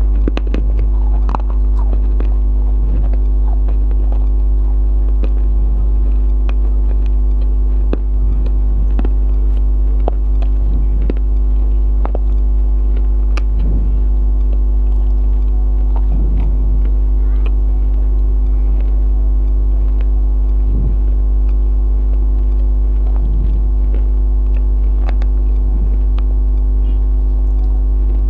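A loud, steady electrical hum with a ladder of overtones. Over it come scattered small clicks and short soft mouth sounds of someone eating biryani, chewing and smacking every second or two.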